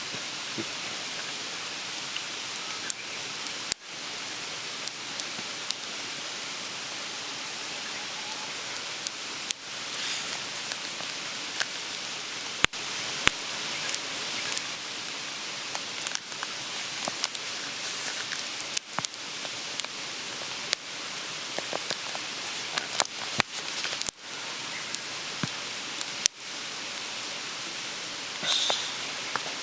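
Steady rushing hiss of a mountain stream, with scattered sharp crackles and pops over it. The sound drops out briefly several times.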